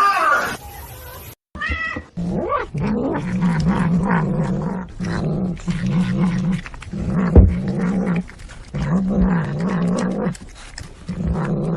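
A cat growling and yowling in long, low, wavering calls, about six in a row with short breaks between them. The end of a rooster's crow fades out just before.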